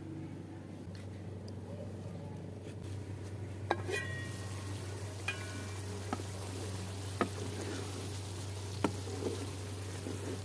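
Curry frying in a pot while a metal spoon stirs it, knocking against the pot about five times; the first knocks ring. A steady low hum runs underneath.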